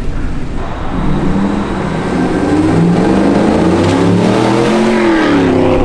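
Chevrolet Suburban engine running through a freshly installed Corsa exhaust and revved once: the pitch climbs for a few seconds, then falls back near the end.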